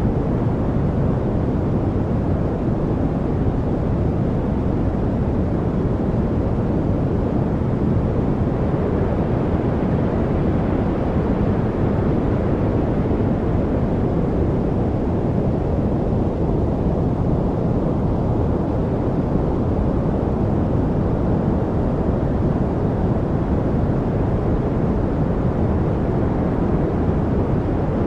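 Steady, deep rushing noise from a study white-noise track, weighted toward the low end like brown noise, unchanging throughout.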